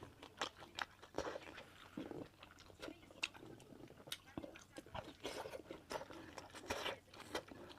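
A person chewing and biting food close to the microphone, with many irregular wet mouth clicks and smacks.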